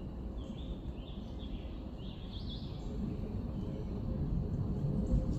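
Small birds chirping several times, mostly in the first half, over a steady low rumble of outdoor background noise.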